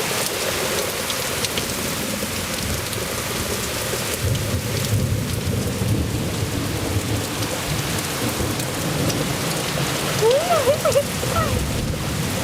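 Heavy rain pouring down, with a low rumble of thunder swelling in the middle. Near the end come a few short sliding pitched sounds.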